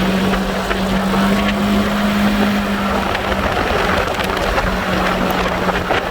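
A vehicle engine running at a steady speed, a low even hum, under rushing wind noise on the microphone; the hum fades about halfway through and returns near the end.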